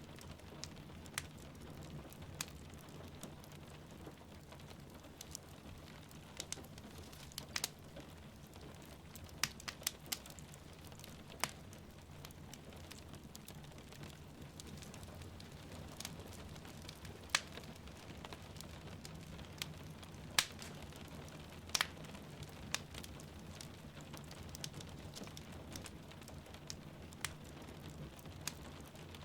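Wood fire crackling in a fireplace, with sharp irregular pops and snaps over a steady low rumble of rain falling outside.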